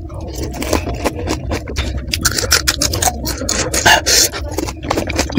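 Close-miked crunching and chewing of crisp panipuri (golgappa) shells stuffed with green chillies: many short crackly crunches in quick succession.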